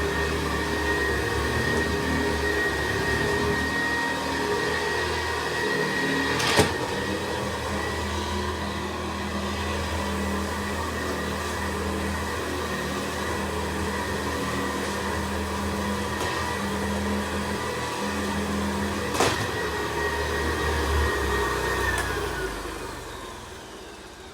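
Vintage 1960s Hoover Senior upright vacuum cleaner running with a steady motor drone and whine, with two sharp knocks along the way. Near the end it is switched off: the whine falls in pitch and the motor winds down.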